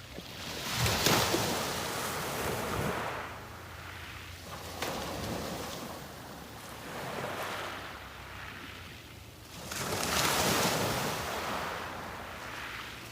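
Sea waves breaking on a beach and washing up the shore in repeated surges. The loudest breakers come about a second in and again near ten seconds, with smaller washes between them.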